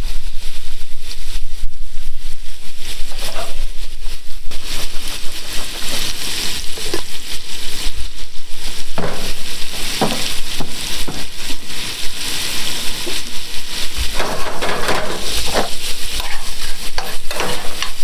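Shrimp and scallops frying in a hot pan, a dense steady sizzle, with a utensil now and then scraping and knocking in the pan as they are stirred.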